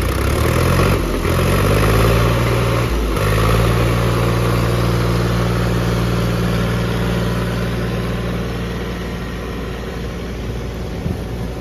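Farm tractor's diesel engine running steadily, its note dipping briefly about one second and three seconds in, then holding steady.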